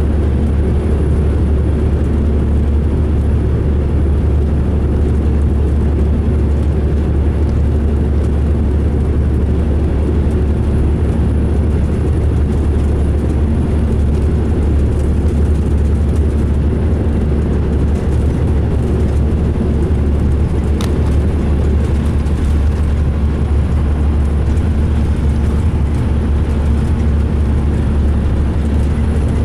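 2005 MCI D4500 motor coach running: a steady, loud, deep drone of the diesel engine and drivetrain, which the uploader hears as rough-running.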